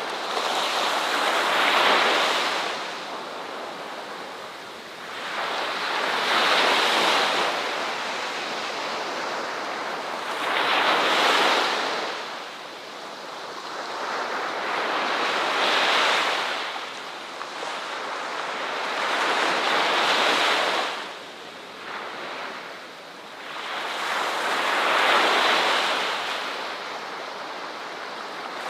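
Ocean surf: waves breaking and washing in, the rush of water swelling and falling away about every four to five seconds.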